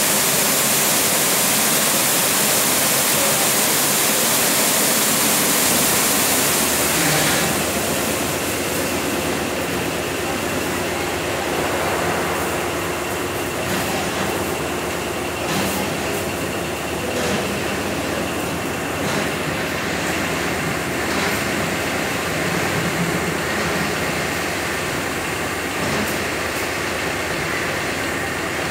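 Automatic car wash: water spraying hard as a strong steady hiss, which drops away about seven seconds in. The machinery then runs on steadily with a faint whine and occasional knocks.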